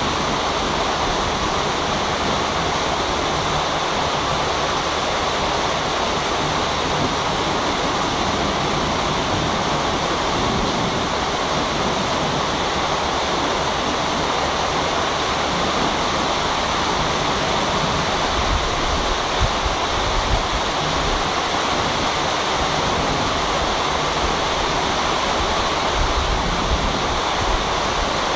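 Rain falling, a steady hiss with no let-up, with a few brief low bumps about two-thirds of the way through and again near the end.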